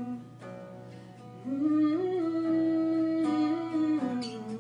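Live acoustic song: strummed acoustic guitar, joined about a second and a half in by a female voice singing long wordless notes that slide between pitches.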